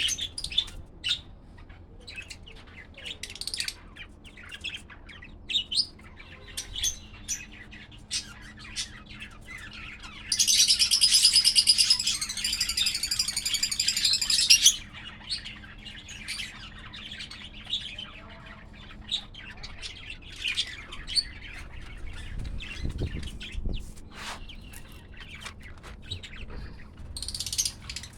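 Small pet parrots chirping: short scattered chirps throughout, with one loud, continuous run of high chattering calls lasting about four seconds near the middle.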